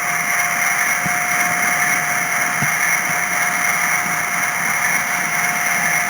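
A Brawa H0 model of a BR 232 diesel locomotive plays a recorded diesel engine sound from its sound decoder through the model's small speaker, over a steady thin whine. Two faint knocks come about a second and two and a half seconds in.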